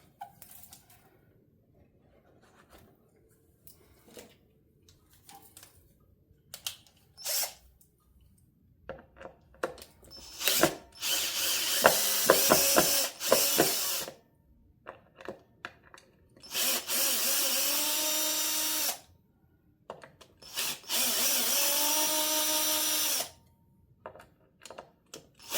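Cordless drill/driver backing out the neck screws of a Stratocaster-style guitar: three runs of two to three seconds of motor whine, the pitch rising as it spins up, with a fourth starting at the very end. Light handling clicks come before the first run.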